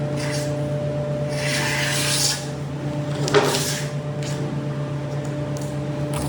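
A tool scraping along wood in a hissing stroke lasting about a second, then a short knock a little later, over a steady machine hum.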